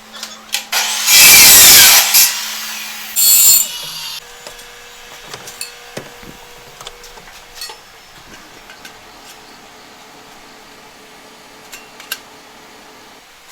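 A power tool cutting in two short bursts during exhaust fabrication: a loud one about a second in lasting about a second, and a shorter one a second later, followed by scattered clicks and knocks.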